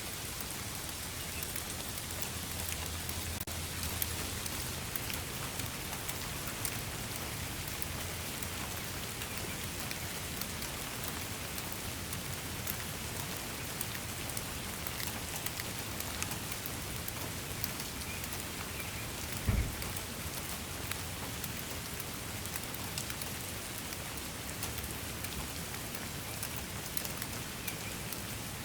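Steady rain falling, a dense patter of individual drops over an even hiss. A single low thump about two-thirds of the way through.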